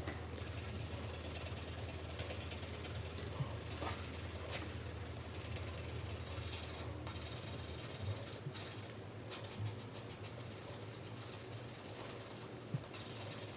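A 4B graphite pencil shading on paper: continuous scratchy strokes rubbing back and forth, broken by a few brief pauses.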